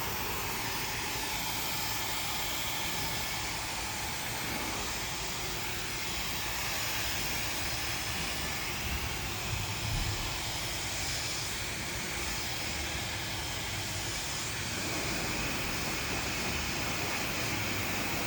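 Handheld hair dryer blowing steadily, a continuous rush of air whose tone shifts a little now and then as it moves over the hair.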